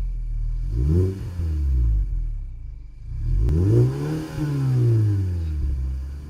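Mazda 6 engine revved through an aftermarket exhaust while stationary: a quick blip about a second in, then a longer rev that climbs and falls back to idle.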